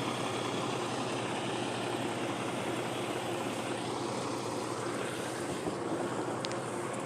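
A vehicle engine idling, a steady, even drone with no change in speed.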